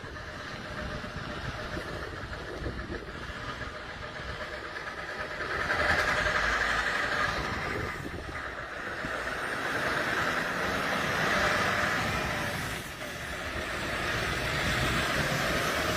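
Heavy truck with a long trailer running and manoeuvring, its engine and road noise swelling and easing several times, with a faint rising whine near the end.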